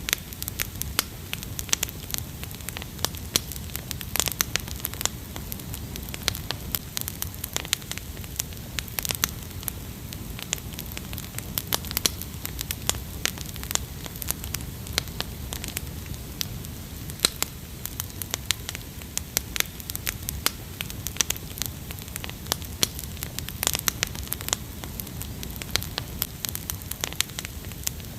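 Wood fire crackling, with frequent irregular sharp pops over a low rumble of burning.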